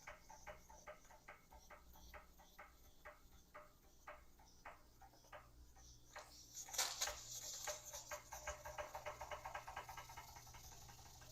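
Small Weeden No. 10 toy steam engine running with a light, regular ticking beat of about three a second. About two-thirds of the way through, a burst of steam hiss comes in and the beats quicken.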